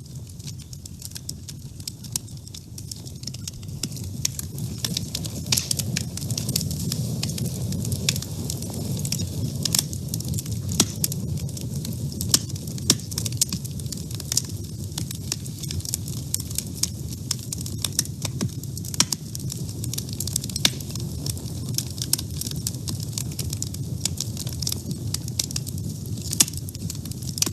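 Wood fire burning in a woodstove: a steady low rush of flame under frequent, irregular sharp crackles and pops from the burning wood.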